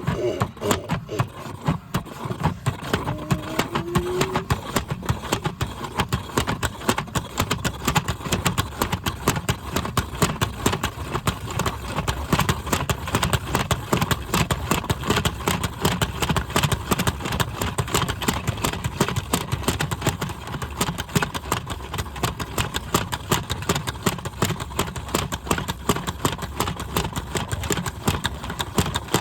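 Washing machine running with a loud, fast, steady rattle.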